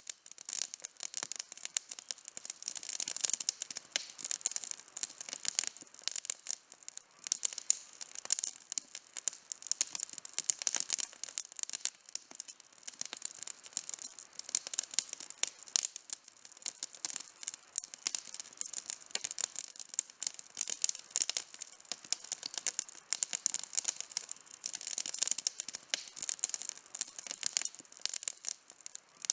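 Wood campfire burning with dense, irregular crackling and popping throughout.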